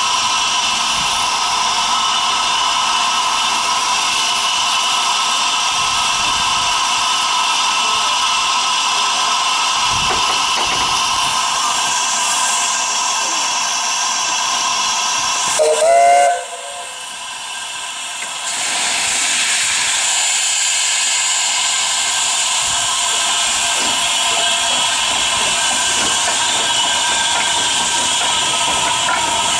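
Cockerill-built NG G16 Garratt steam locomotive with steam hissing loudly and steadily. Just after midway there is a short loud burst, the hiss drops away for about two seconds, then it resumes.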